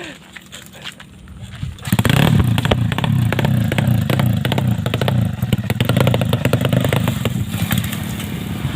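Drag-bike motorcycle engine of about 130cc starting up about two seconds in and running loudly with a rapid pulsing rumble, after a few light mechanical clicks.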